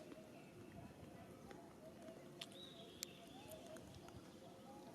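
Faint outdoor ambience with a few sharp clicks and one high, thin call held for about a second around the middle, over soft scattered chirps.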